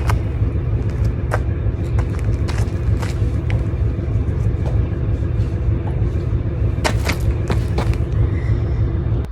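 Commuter train running: a steady low rumble with scattered sharp clicks and knocks, two of them louder about seven seconds in.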